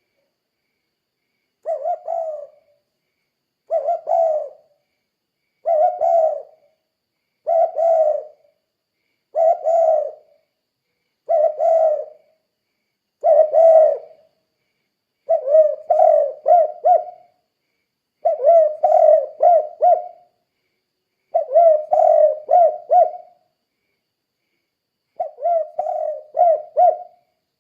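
Spotted dove cooing in the song type that Indonesian dove keepers call "kuk 2". It repeats a short phrase about every two seconds, and from about halfway on each phrase is longer, with three or four quick notes.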